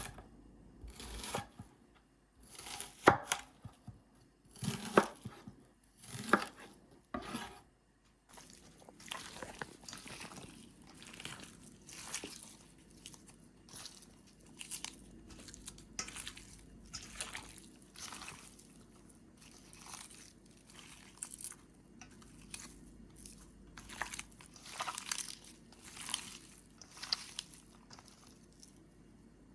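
Knife cutting food on a cutting board: separate strokes about a second apart at first, then a quicker, lighter run of cutting and rustling.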